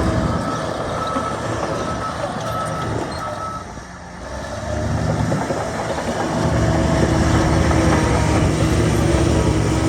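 Heavy diesel earthmoving machinery running, with a reversing alarm beeping in short, evenly spaced beeps for the first three seconds. The engine sound dips about four seconds in, then builds up and holds louder from about six seconds on.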